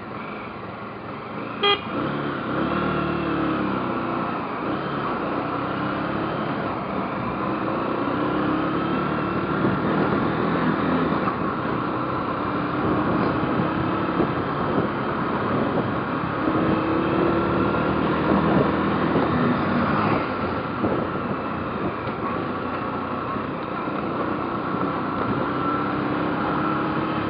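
A vehicle engine running, its pitch rising and falling, with road traffic around it. A sharp click comes about two seconds in.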